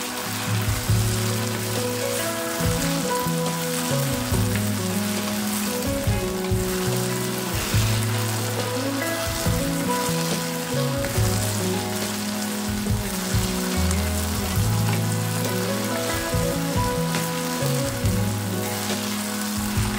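Chopped okra frying in a pan, a steady sizzle with the scrape and rustle of a wooden spatula stirring it round. Background music with held low notes that change every second or two plays underneath.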